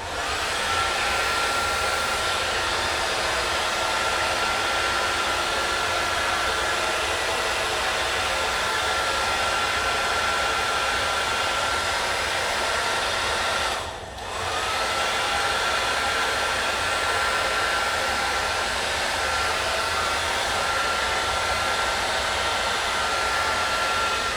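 Hand-held blow dryer running steadily with a high motor whine, blowing paint across paper. About 14 seconds in it is cut off briefly, the whine sliding down and then back up as it comes up to speed again, and it stops near the end.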